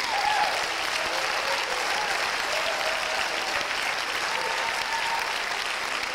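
Audience applauding steadily at the end of a stage skit, with a few voices calling out over the clapping.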